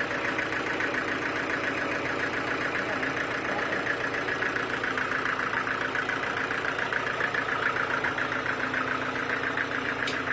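Sawmill machinery running steadily, with a fast, even pulsing, and a short sharp click just before the end.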